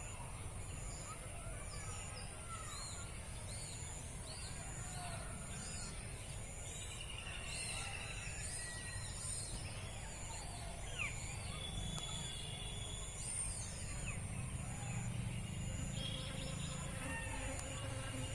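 Several kinds of small birds chirping and calling in short, scattered notes, over a steady high-pitched drone, a high tone pulsing about once a second, and a low rumble.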